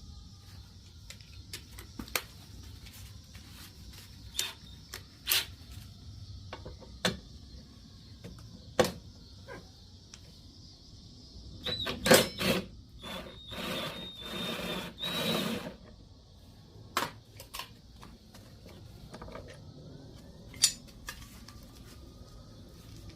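Scattered sharp clicks and knocks of something being handled, with a denser stretch of clattering and rubbing about halfway through, over a steady high hiss.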